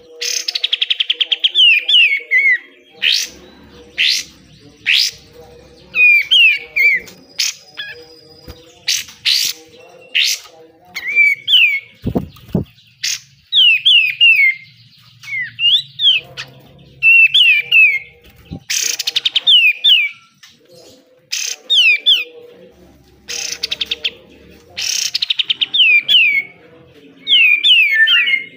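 Kapas tembak songbird singing loudly: harsh, rapid rattling bursts (the 'besetan') alternating with phrases of quick, sliding whistled notes, repeated every second or two.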